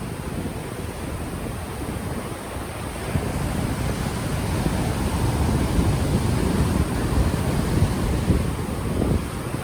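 Ocean waves washing onto a beach, building slowly over several seconds, with wind buffeting a microphone that has no windscreen.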